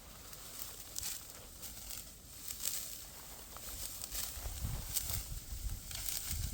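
Intermittent dry rustling and crackling, with a low rumble that grows louder in the second half.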